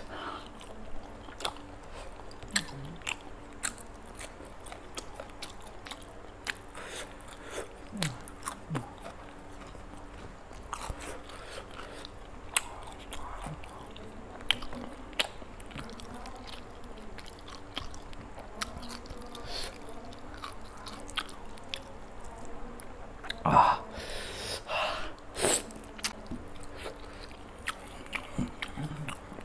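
A person chewing and biting food close to the microphone: irregular wet smacks and clicks, with a few louder bites near the end.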